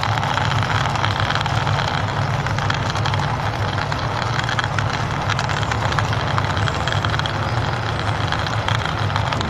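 Plastic wheels of a toy army tank rolling over rough stone as it is pushed along by hand: a steady grinding rumble with fine crackle.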